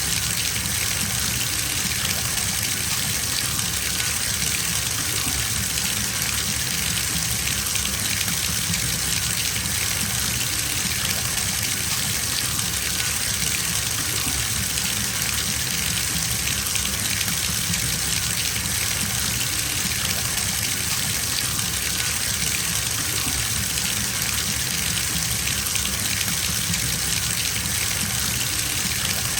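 Bathtub filling from the tap: water gushing steadily into the tub, an even hiss without change.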